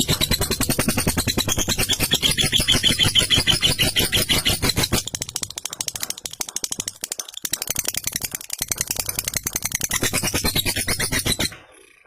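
Lovebird giving its long 'ngekek' call: a rapid rattling chatter of many quick notes, running for about eleven seconds and stopping abruptly just before the end.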